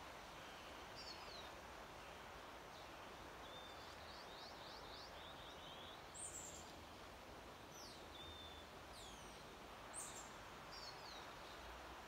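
Songbirds calling and singing faintly over a steady background hiss: short chirps, a quick run of repeated notes a few seconds in, and several down-slurred whistles, the sharpest about halfway through and near the end.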